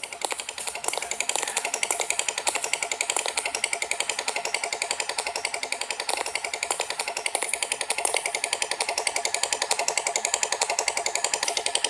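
Motorcycle engine running steadily with a fast, even, clattering rhythm.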